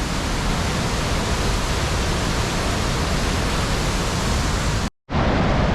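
Waterfall heard from close up: a loud, steady rush of falling water. The sound cuts out completely for a split second about five seconds in, then carries on.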